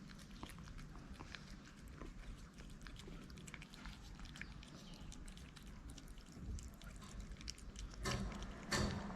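Cats chewing and crunching food, a steady patter of small clicks, with two louder noises near the end.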